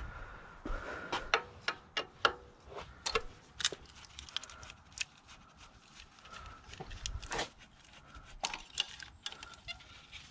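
Scattered metallic clicks and clinks of hand tools and small metal parts being handled while components are taken off a van's engine, irregular and a few per second at the busiest.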